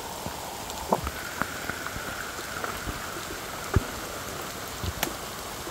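Steady rain falling, an even hiss with scattered sharper drop or tap sounds now and then.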